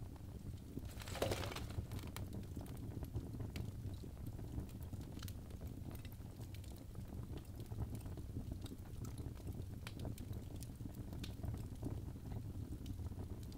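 Birch logs burning in a fireplace, crackling with scattered small pops over a steady low rumble of flame. About a second in there is one louder, longer hissing crackle.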